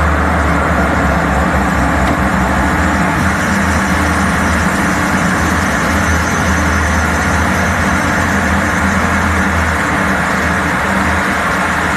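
Fighter jet's engines running with a loud, steady drone that holds unchanged throughout.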